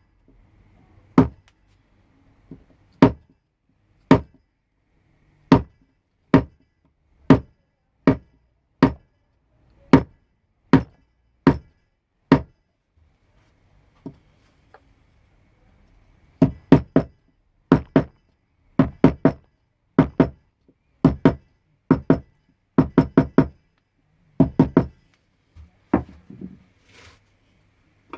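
Mallet striking a carving chisel into pine, a sharp knock about once a second, then a pause of a few seconds near the middle, then quicker strikes in twos and threes.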